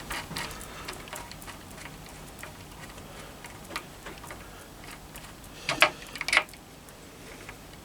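Light metallic ticking and clicking as the bolts of a homemade gear puller are screwed into a timing gear, with two louder metal clinks about six seconds in.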